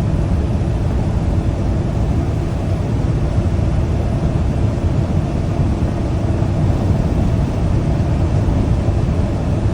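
Steady road and engine noise inside the cab of a moving semi-truck, mostly low and even throughout.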